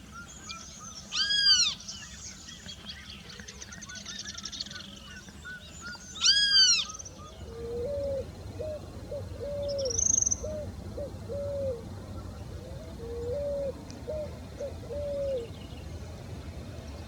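Wild birds calling: two loud arched calls about five seconds apart over a chatter of smaller birds, then two runs of low, evenly spaced hooting notes.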